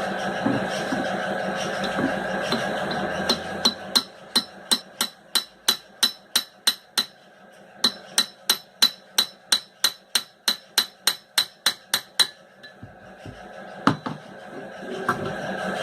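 Hammer tapping on a sewing machine's electric motor, about three quick knocks a second for some eight seconds with a brief break in the middle, then one last knock near the end: knocking the motor's end part loose to reach its bearings.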